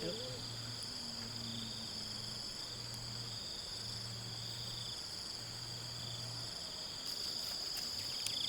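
Crickets chirring steadily in a high, unbroken trill, with a faint low hum coming and going beneath it.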